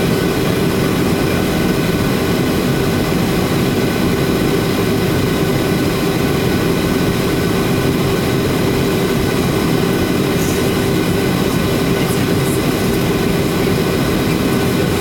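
Boeing 737-800 cabin noise in flight: a loud, steady drone of the jet engines and airflow, with a steady hum running through it. A few faint ticks come about ten to twelve seconds in.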